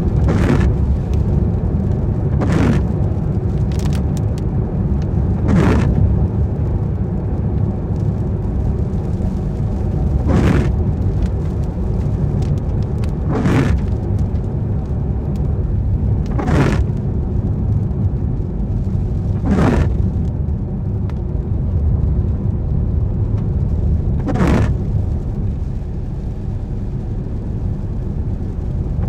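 Car driving on wet roads in the rain, heard from inside: a steady low rumble of engine and tyres, with a short swish every few seconds, typical of the windscreen wipers sweeping.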